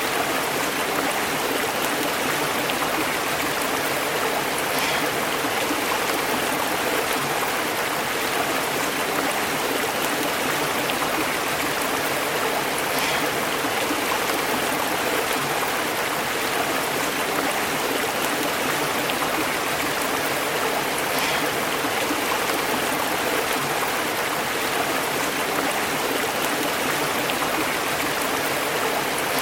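A stream flowing and bubbling over rocks, a steady, even rush of water.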